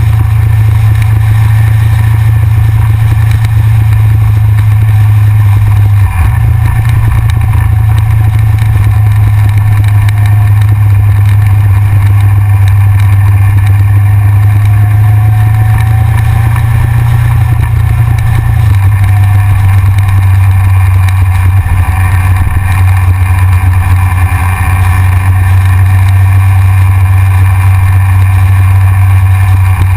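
Yamaha XJR motorcycle's inline-four engine running steadily on the road, picked up by a camera mounted on the front of the bike. The engine note steps up a little about six seconds in and drops back a little past halfway.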